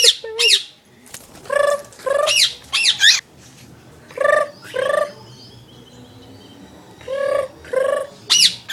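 A bird calling: a series of short, repeated chirping calls coming in clusters, with a pause of a couple of seconds in the middle.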